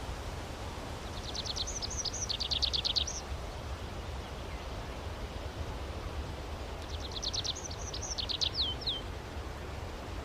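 A songbird singing two phrases of quick, rapidly repeated high notes, each lasting about two seconds, one about a second in and one about seven seconds in. A steady low rumble of background noise runs underneath.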